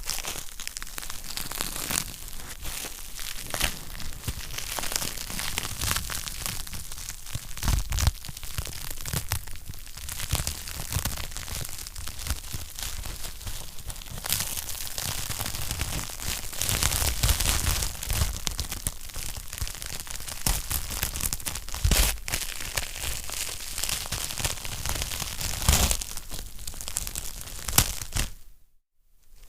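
Wood fire crackling in a fireplace: a dense, continuous run of small snaps with a louder pop now and then. The sound cuts out for a moment just before the end.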